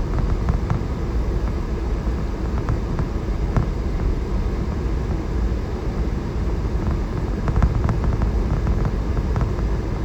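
Steady low rumble of a four-wheel-drive vehicle driving on snow-covered roads, heard from inside the cab, with scattered light clicks and crackles throughout.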